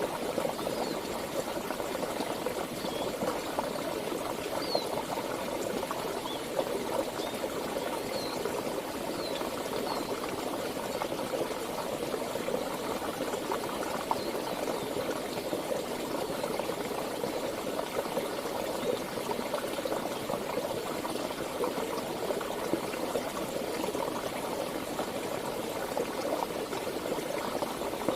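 Flowing stream water babbling and splashing steadily. A few faint, short high chirps come in over it during the first ten seconds or so.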